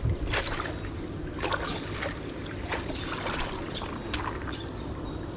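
Water sloshing and trickling at the pond's edge, with irregular sharp splashes and clicks.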